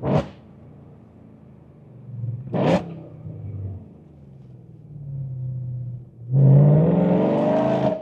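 BMW E92 M3's S65 V8 with a titanium exhaust, heard from inside the cabin: two short, sharp revs, one right at the start and one nearly three seconds in, then a steady drone. About six seconds in it goes to hard acceleration, the pitch rising, and cuts off sharply at the end.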